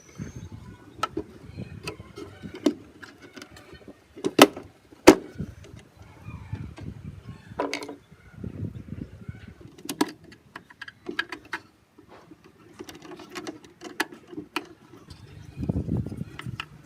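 Irregular clicks, taps and knocks of small metal parts and tools being handled, with two sharp knocks about four and five seconds in and a brief ringing clink near the eighth second.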